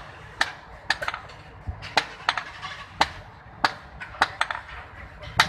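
Blacksmith's hammer striking iron on an anvil while forging a knife: a run of sharp, unevenly spaced strikes at about two a second.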